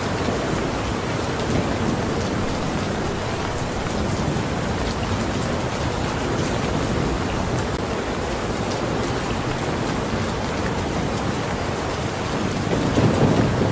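Steady, dense rain falling on surfaces, with a low rumble swelling up near the end.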